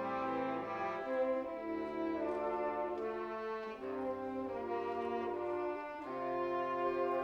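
Brass ensemble playing held chords that shift every second or so over low bass notes.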